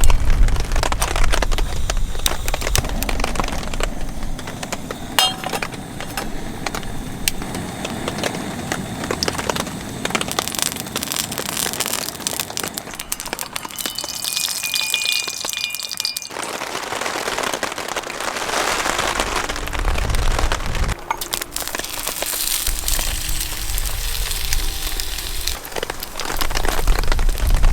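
Rain pattering, a dense crackle of drops, with gusts of wind buffeting the microphone at the start and again in the second half.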